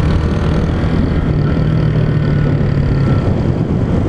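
Honda Titan 150's single-cylinder four-stroke engine running at a steady speed under way, mixed with heavy wind and road noise.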